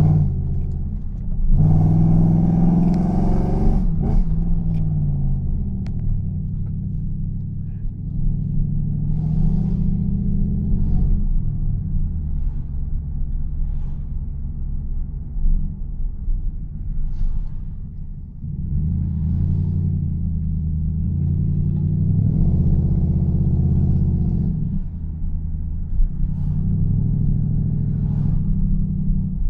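Toyota Soarer's 4.0-litre V8 through a straight-through exhaust, with a deep rumble. The revs climb and drop back several times as the car accelerates and changes gear.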